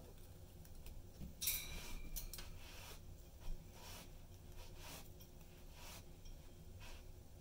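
Pet budgies moving about their cage: scattered faint scratches, clicks and rustles, with a louder brief rustle about one and a half seconds in.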